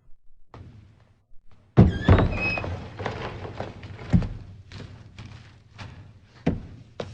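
A loud thud about two seconds in, followed by a run of knocks and clattering clicks, with two more heavy thuds later on.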